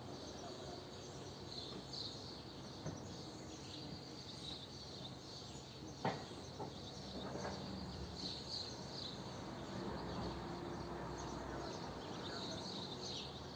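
Swallows twittering in repeated bursts of high chirps over a steady low background hum, with a single sharp click about six seconds in.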